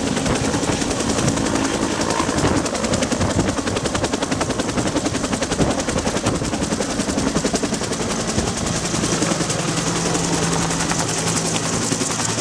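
Bell UH-1 Huey helicopter running, its two-bladed main rotor giving a rapid, continuous beating with a steady hum underneath.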